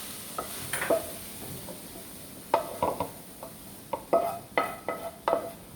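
Metal spatula knocking and scraping against a cooking pan as sautéed vegetables are scooped out, a string of sharp clanks that ring briefly, coming more often in the second half, over a faint sizzle.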